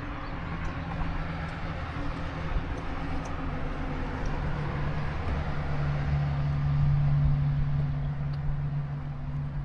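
Steady low engine drone that grows louder in the second half.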